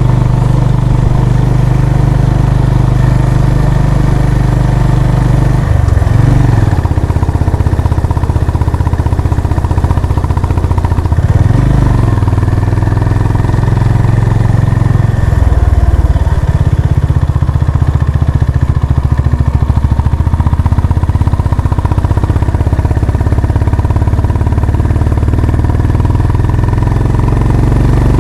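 Honda CB350 RS motorcycle's air-cooled single-cylinder engine running under way, its exhaust note steady and loud. The note shifts in pitch a few times, about six, twelve and fifteen seconds in, as the throttle or gear changes.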